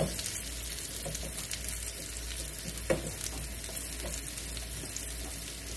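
Cubed sweet potatoes frying in beef tallow in a skillet, sizzling steadily, while a wooden spoon stirs them with a few light knocks against the pan, the sharpest about three seconds in.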